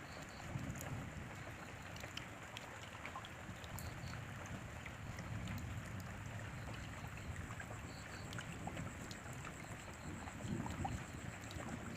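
Steady rain, a constant hiss with scattered sharp drop ticks over a low rumble that swells now and then.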